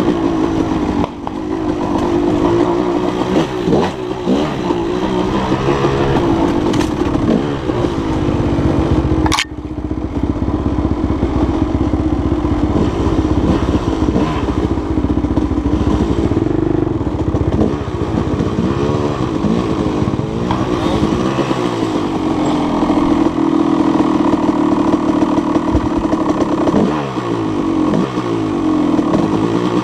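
Dirt bike engine being ridden off-road, its pitch climbing and dropping again and again with throttle and gear changes. A single sharp knock comes about nine seconds in.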